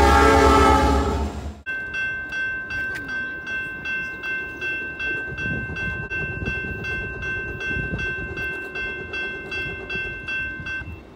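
Norfolk Southern diesel locomotives pass close by with a loud, dense rumble that cuts off abruptly about a second and a half in. After that a bell rings steadily about twice a second over a faint low rumble, and stops near the end.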